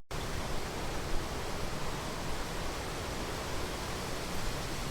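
Steady rushing of the Rhine Falls, a broad waterfall on the Rhine, heard as even, unbroken water noise; the sound drops out for an instant right at the start.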